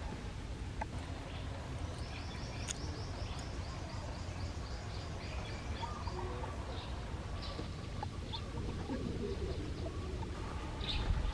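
Birds calling outdoors, with a quick run of high chirps repeated about four times a second for several seconds in the middle, over a steady low rumble. A brief low bump near the end.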